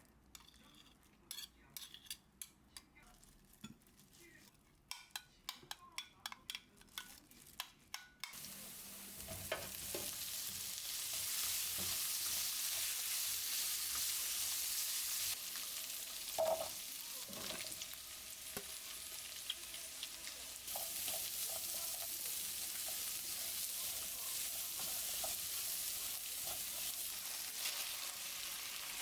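A run of sharp taps and clicks. About eight seconds in, a steady loud sizzle starts as food goes into a hot pan and keeps frying, with occasional knocks of stirring: sausages and vegetables being stir-fried.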